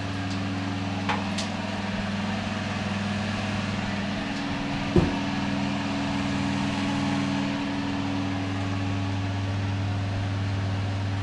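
Bathroom extractor fan running with a steady low electric hum, and a single knock about halfway through.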